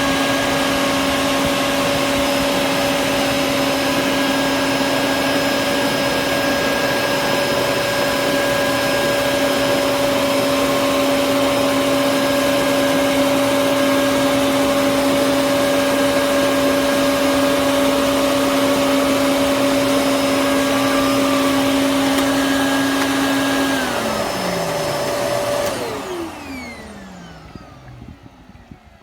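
Quantum X upright water filter vacuum cleaner's motor running steadily with a constant whine. Near the end it is switched off, and its whine falls in pitch as the motor spins down and fades out.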